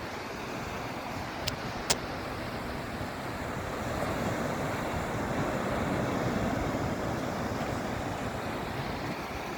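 Sea surf washing onto a beach, a steady rush of water that swells for a few seconds midway. Two sharp clicks sound close together near the start.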